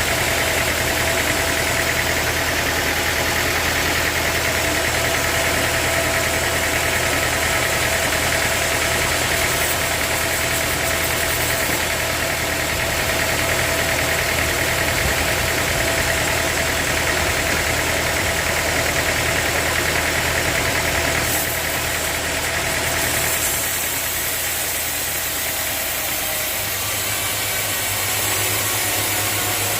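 Sawmill machinery running steadily with a constant engine-like drone and steady whine. The sound changes a little after twenty seconds in: the high part drops away and the level eases slightly.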